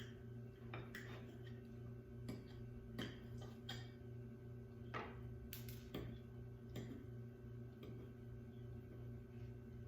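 Faint, irregular clicks and taps of cutlery against a plate while a forkful of chicken wrap is cut and eaten, about ten in all, over a steady low electrical hum.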